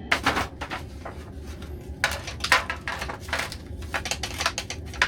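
Irregular clattering and clicking of hard objects being handled, several sharp knocks a second, over a steady low hum.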